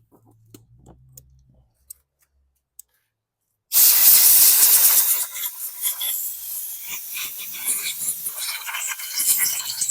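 A few faint clicks of parts being handled, then about four seconds in a sudden loud hiss of compressed air blowing through the top half of the carburetor to clear it out, going on in uneven gusts.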